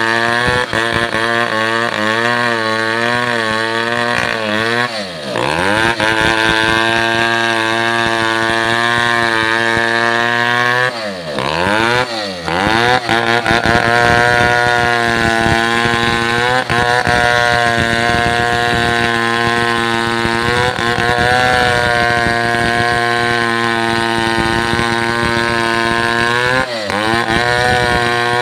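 Chainsaw engine running steadily at high revs, its pitch dipping sharply and picking back up about five seconds in, twice around eleven to twelve seconds, and once more near the end.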